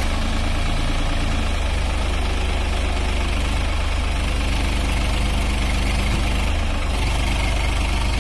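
Massey Ferguson 5245 DI tractor's three-cylinder diesel engine running steadily, a low, even rumble.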